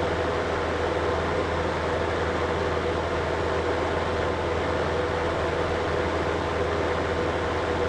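Window-unit air conditioner running steadily: an even rush of blown air over a low motor hum and a faint steady tone.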